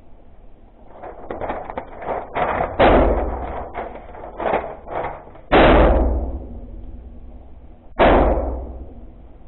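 Three 9mm pistol shots from a Glock 43X, fired slowly about two and a half seconds apart, each with a trailing echo. Smaller clicks and knocks come between the first shots.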